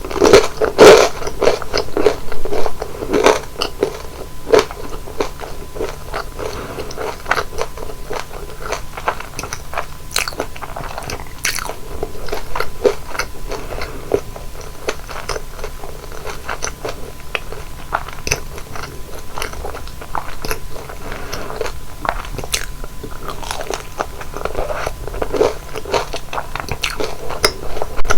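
Close-up crunchy biting and chewing of deep-fried flower rolls (kkotppang), crisp outside and soft inside. Loud crunching bites come near the start and again near the end, with steady crackly chewing between.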